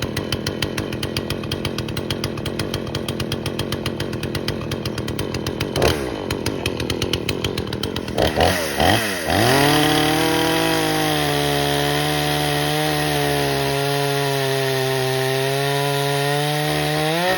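Chainsaw idling with a fast, even pulse, blipped briefly a couple of times, then revved up to a steady high-pitched full-throttle run that is held for several seconds before the throttle is released near the end.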